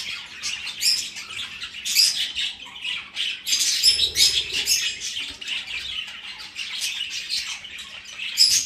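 A flock of budgerigars chirping and chattering, many short overlapping calls with the odd louder squawk.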